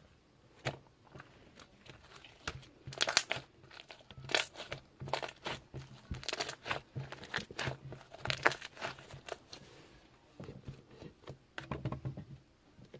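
Irregular crinkling and rustling, as of something being handled and crumpled, in bursts of short crackles with a faint low hum underneath.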